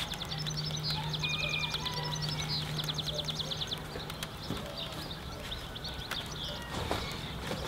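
A bird's rapid trill of high repeated notes for about three seconds, over a low steady hum that stops about four seconds in.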